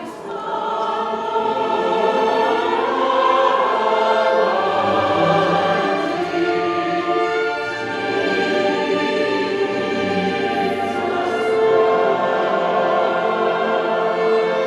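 Choir singing sacred music in long held chords, swelling and easing in loudness.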